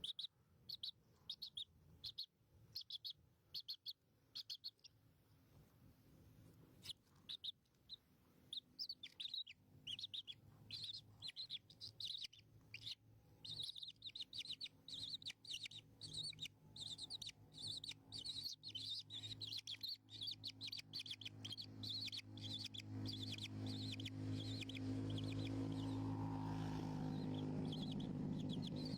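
Baby birds in a nest chirping, high and rapid: short groups of chirps at first, then an almost unbroken stream from about halfway. A low steady hum rises beneath them near the end.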